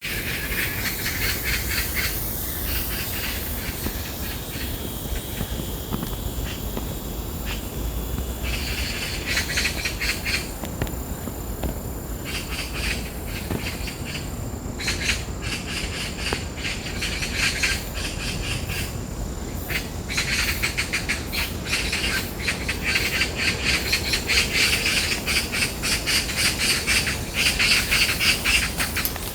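Magpies chattering in harsh, rapid rattling runs that go on almost without a break and grow busier in the second half. A thin steady insect buzz sits high above.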